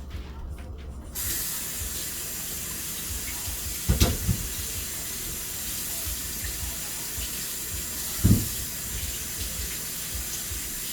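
Kitchen faucet turned on about a second in and running steadily into the sink while potatoes are rinsed under it. Two dull knocks, about 4 and 8 seconds in, are the loudest sounds.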